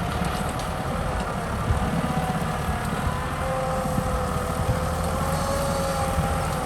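Kubota M6040 tractor's diesel engine running steadily, a low rumble with a faint wavering whine above it.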